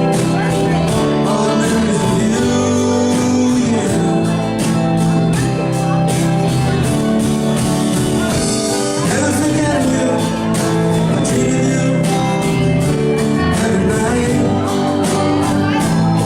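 A live band playing with singing, the drums keeping a steady beat under sustained guitar and keyboard notes.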